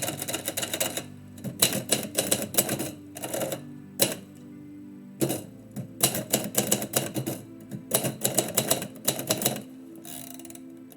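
Typewriter typing in rapid bursts of key strikes with short pauses between runs, over quiet background music.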